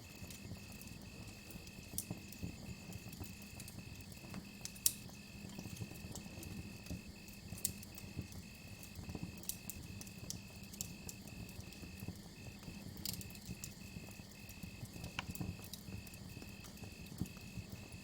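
Campfire crackling, with scattered sharp pops over a low rumble, along with crickets chirping steadily at about three chirps a second.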